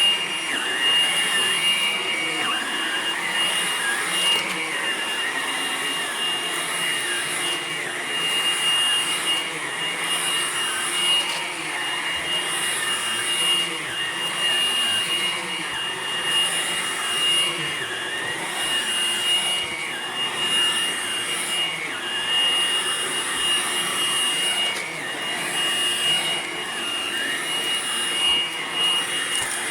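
Hoover Blade+ cordless stick vacuum running continuously, a steady high whine over motor and suction noise, with lower tones wavering up and down as it is worked.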